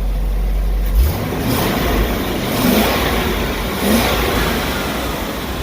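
A 2003 GMC box truck's engine idles, then is revved several times from about a second in, each rev swelling and falling back. The seller calls the motor sound great.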